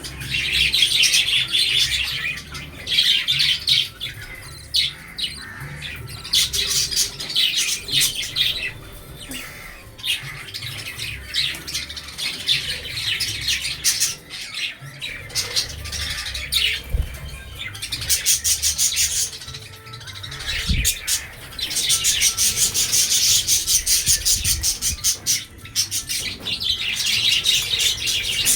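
Budgerigars chattering and squawking: fast, scratchy runs of chirps that stop and start, busiest in the second half.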